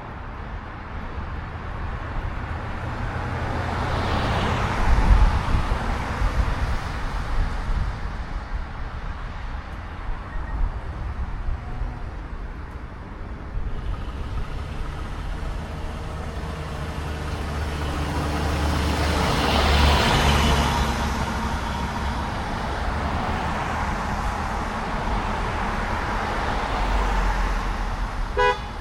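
Road noise from a Harley-Davidson Road Glide on the move: a steady low engine rumble under wind and traffic, swelling louder twice, around five and twenty seconds in.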